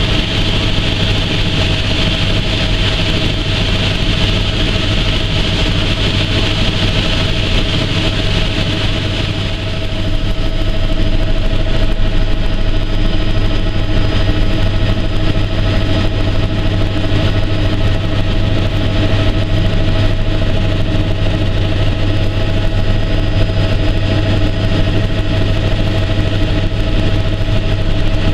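Helicopter engine and rotor running steadily in flight: a constant drone with a strong low hum. About ten seconds in, a high hiss fades and the drone gets slightly louder.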